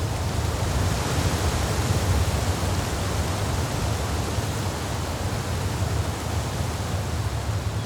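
Steady rushing hiss with a low hum underneath, the noise floor of a trail camera's built-in microphone recording in the forest, with no distinct event.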